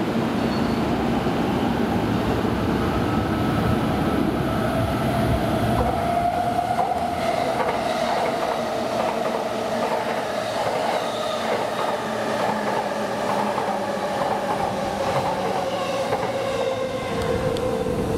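Electric commuter trains running through a station. A single motor whine climbs for a couple of seconds about a third of the way in and then slowly falls, over a steady rumble and clatter of wheels on the rails.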